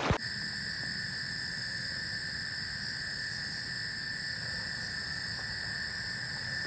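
Forest insects, crickets and the like, trilling steadily after rain, several steady high pitches held together without a break. A short click at the very start.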